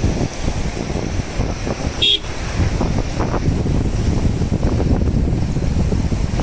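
Flooded Betwa River rushing, a steady loud churning roar, heavily buffeted by wind on the microphone. About two seconds in, a brief high-pitched tone cuts through.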